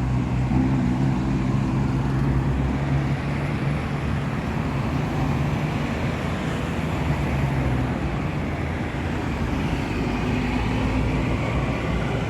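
Motor vehicle engine droning steadily with road noise, as heard from a vehicle on the move; the engine hum is a little stronger for the first few seconds, then settles.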